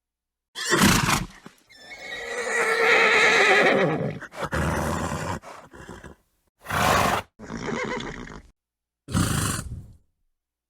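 Horse snorting, then giving one long, wavering whinny of about two seconds, followed by several more short snorts and blowing sounds with abrupt silent gaps between them.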